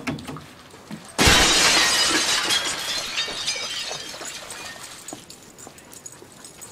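A sudden loud crash of glass breaking about a second in, followed by several seconds of tinkling and clinking that slowly die away.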